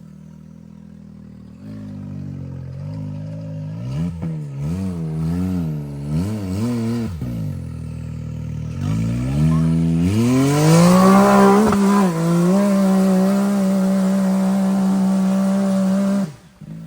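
Side-by-side UTV engine revving up and down in short throttle blips, then climbing steeply about nine seconds in and held at high revs for about six seconds. It cuts off suddenly near the end.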